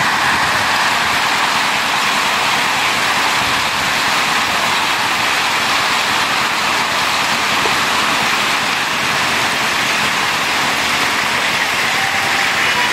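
Heavy rain falling in a steady, even hiss, with hail lying on the ground from the same storm.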